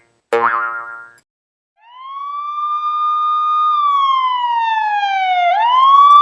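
A short cartoon boing near the start, then a police siren wail sound effect: its tone sweeps up, holds, slides slowly down and sweeps up again.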